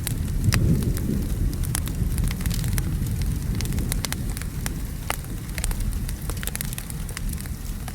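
Wood fire crackling with frequent sharp pops, layered over a steady low rumble of rain and distant thunder.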